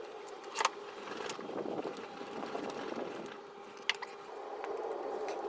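A steady mechanical hum from a small motor, with two sharp metallic clicks, one about half a second in and one near four seconds in.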